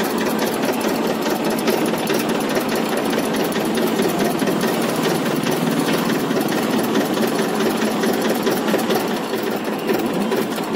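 Tractor engine running steadily as the tractor drives along.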